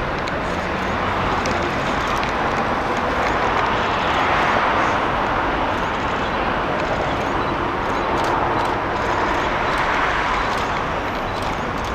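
Boeing 777-300ER's twin GE90-115B turbofans at take-off thrust, a steady loud jet noise that swells and eases slowly as the aircraft passes.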